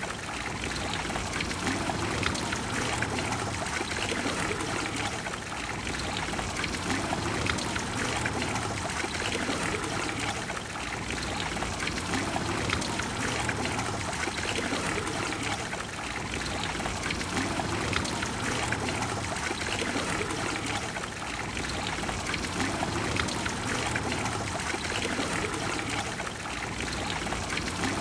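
Trevi Fountain water falling and flowing into its basin, a steady splashing rush with no breaks.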